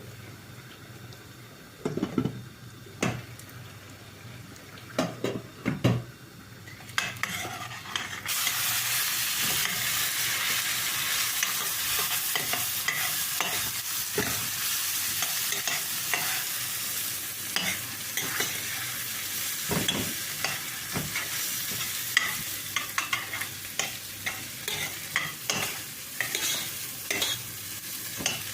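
A few knocks and clacks of kitchen utensils, then about eight seconds in food starts sizzling loudly in a hot frying pan. It keeps frying, with frequent clicks and scrapes as it is stirred.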